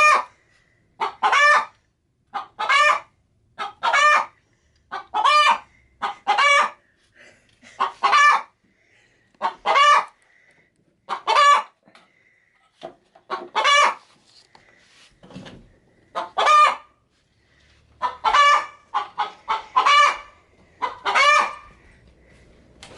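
Hen cackling: a loud, drawn-out call repeated about every second and a half, with softer clucks in between. The hen is about to lay an egg.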